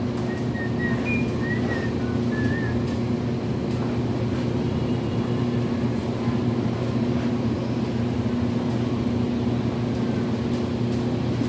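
A machine engine running steadily with an even, unchanging drone, with a few short high chirps in the first three seconds.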